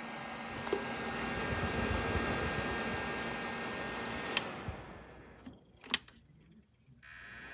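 Portable electric space heater's fan blowing steadily, with a constant hum under the rush of air. About five seconds in the blowing fades out, with a couple of sharp clicks, and it starts up again near the end.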